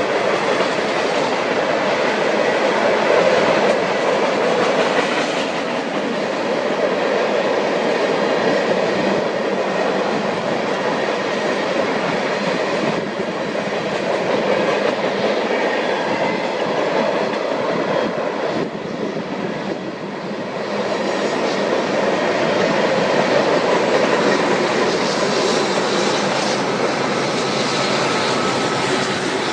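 Union Pacific freight train cars rolling past at close range, a steady rumble and clatter of steel wheels on the rails.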